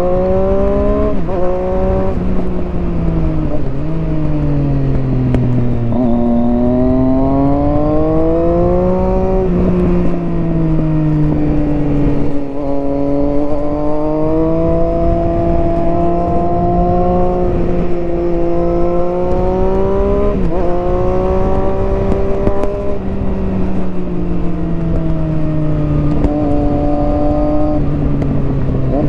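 Triumph Street Triple 675R's three-cylinder engine breathing through an HP Corse Hydroform exhaust, heard on board while riding. The revs climb and fall throughout, with several quick drops in pitch at gear changes and smoother slides down as the throttle is eased.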